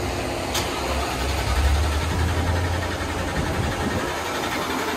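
Ford Mustang V8 engine running on a dyno: a steady low rumble that swells a little between about one and a half and three seconds in.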